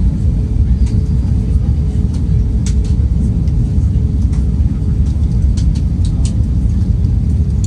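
Airbus A319 cabin noise in flight on approach: a steady low rumble of engines and airflow with a faint steady hum above it, and a few light clicks and rattles.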